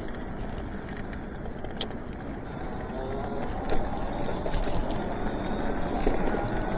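Riding noise from an electric bike: wind on the microphone and tyres on the road, growing slowly louder, with a faint rising whine from the hub motors and a single knock a little past halfway.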